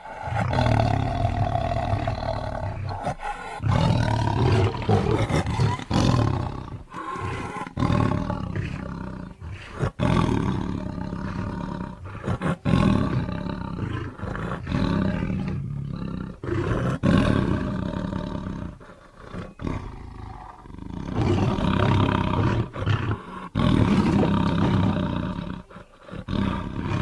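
A made-up creature sound mixed from tiger roars and other animal sounds: a run of long, loud roars one after another, broken by short pauses.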